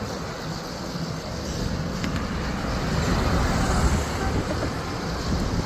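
Steady low rumbling outdoor noise, with a faint brief high-pitched sound about two seconds in.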